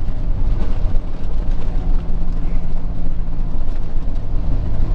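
Peterbilt 379 semi truck's diesel engine and road noise while driving, heard from inside the cab as a steady low rumble.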